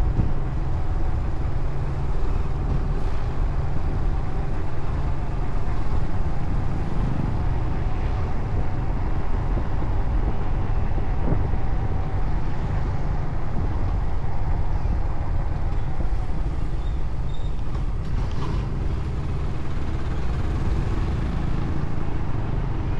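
Motorcycle being ridden, with steady engine and road noise throughout.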